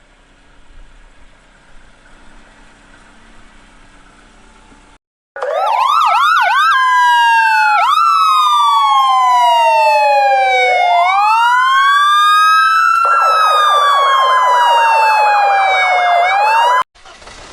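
Police siren wailing, its pitch sweeping slowly up and down, for about eleven seconds starting about five seconds in, with a fast warble joining partway through. Before it there is only faint low background.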